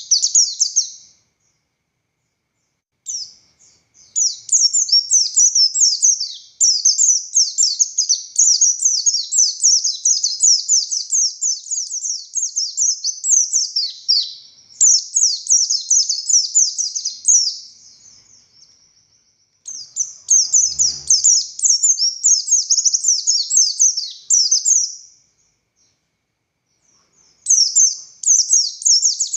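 Pleci buxtoni white-eye singing long, rapid, high-pitched chattering phrases with short pauses between them, the fast-paced 'ngalas' song with 'tembakan' shots.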